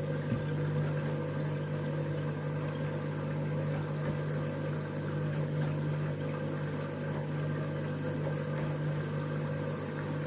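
Candy washing machine on the second fill of its cycle, water running into the drum with a steady low hum.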